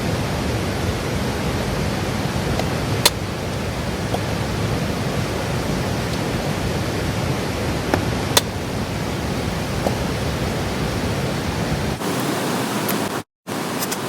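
A steady rushing noise with a few short, sharp clicks, about 3 seconds in and twice around 8 seconds.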